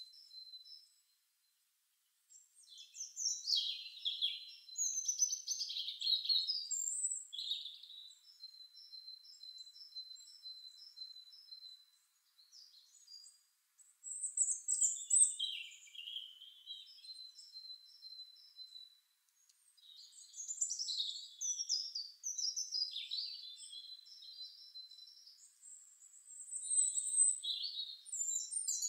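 Birdsong sound effect: songbirds chirping and trilling in high-pitched phrases, with runs of short repeated notes and thin whistles, broken by brief total silences.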